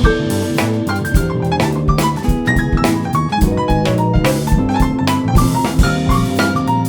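A jazz fusion band playing live: a drum kit keeping a busy beat under bass and melodic keyboard or mallet-like lines.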